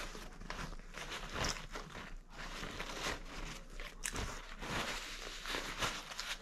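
A person chewing a mouthful of food: irregular wet mouth clicks and crunches, several each second.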